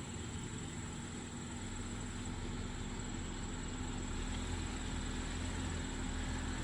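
Jeep Willys engine running at low speed while off-roading: a steady low rumble that grows a little louder about four seconds in.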